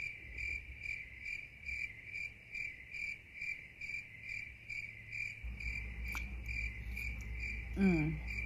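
A cricket chirping steadily, about three even chirps a second, with a short vocal sound near the end.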